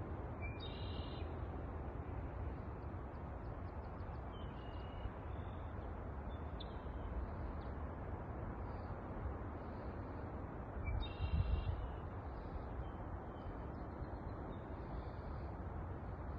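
A bird calling over a steady rushing background: a short call about half a second in and again about eleven seconds in, with fainter calls in between.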